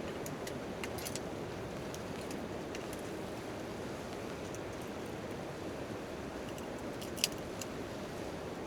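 Steady rain on a tent tarp mixed with a crackling campfire: a constant rushing hiss with scattered sharp pops, the loudest about seven seconds in.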